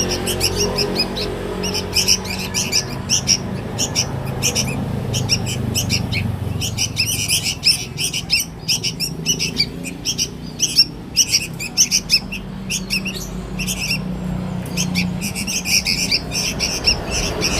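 Sooty-headed bulbul (kutilang) chick giving rapid, repeated short chirps: the begging calls of a young bulbul being hand-fed. The chirping thins out in the middle and picks up again near the end.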